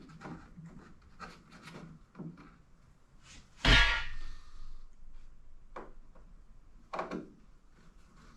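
Plastic interior trim being handled and pushed into place: rubbing and light knocks, with one sharp knock that rings briefly a little under halfway in and a smaller one near the end.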